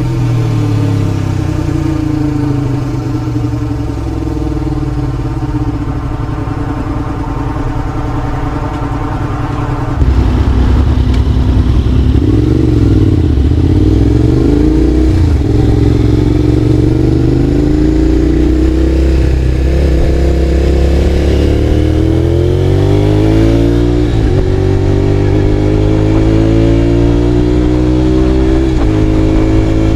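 Honda VTR250's V-twin engine through a WR'S full exhaust system with carbon silencer, ridden on the road. For the first third the revs fall slowly as the bike coasts off the throttle. Then the exhaust suddenly gets louder as the throttle opens, and the revs climb steadily, dropping sharply twice near the end as it shifts up a gear.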